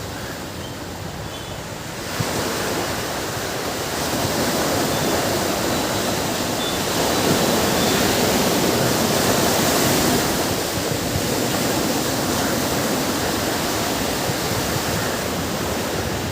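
Ocean surf washing onto a beach. It is a steady rush that swells about two seconds in, builds to its loudest around the middle, then eases off a little.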